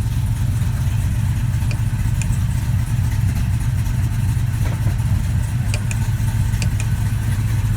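1968 Chevrolet C10 pickup engine idling steadily, with a few faint clicks over the top.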